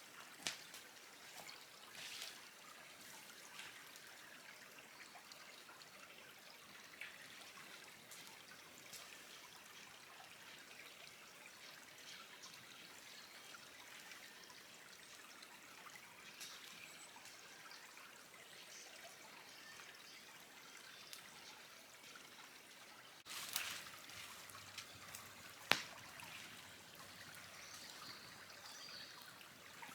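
Faint steady trickle of running water, with a few sharp cracks, the loudest two close together late on.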